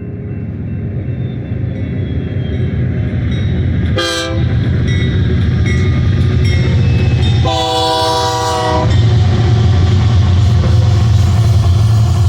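Diesel freight locomotive approaching, its low engine rumble growing louder. The air horn sounds a short blast about four seconds in and a longer one of about a second and a half near the middle, with wheel and rail noise building toward the end.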